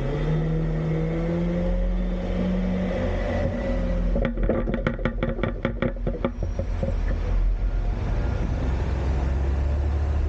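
Autocar-Heil Freedom front-load garbage truck running its hydraulics with the engine raised and a steady whine, broken about four seconds in by a rapid clatter of about seven knocks a second lasting two seconds as a recycling container is emptied over the cab into the hopper. The truck then settles to a low steady engine rumble.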